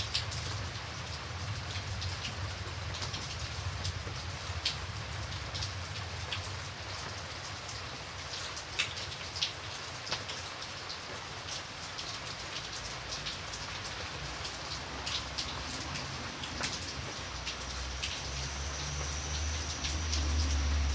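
Steady rain falling, with individual drops tapping sharply and irregularly on a surface. A low rumble swells in the last few seconds, and a faint high steady tone comes in near the end.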